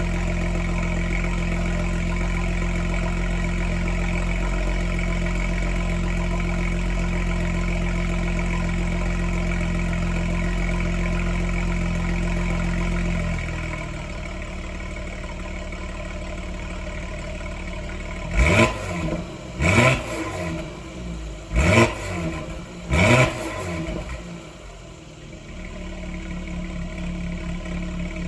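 Engine warming up after a cold start: it runs at a steady fast idle, and about halfway through the idle drops to a lower, quieter note. It is then blipped four times in quick succession, each rev rising and falling back, before settling to idle again.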